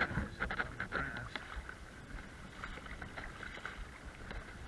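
Sloshing splashes of legs wading through a shallow river, several short splashes in the first second or so, over the steady rush of the current.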